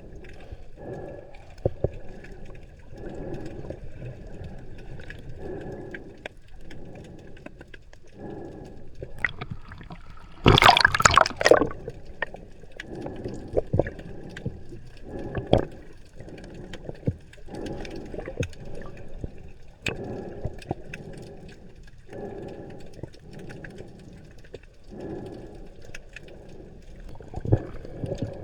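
Underwater water noise: soft surges of moving water every second or two, with a loud burst of bubbling about ten seconds in that lasts about a second and a half.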